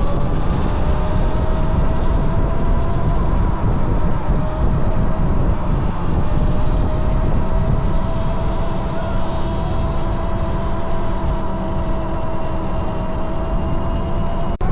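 Electric bike motor whining steadily under way, its pitch creeping slowly upward as the bike gathers speed, over a heavy rumble of wind on the microphone.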